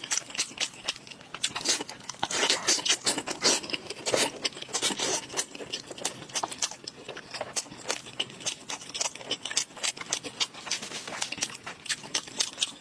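Close-miked eating sounds: chewing and biting, with many quick, irregular crackly clicks and smacks.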